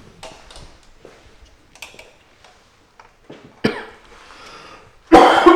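A few faint clicks and light handling sounds, then a sharp click, and near the end one loud cough that fades over about half a second.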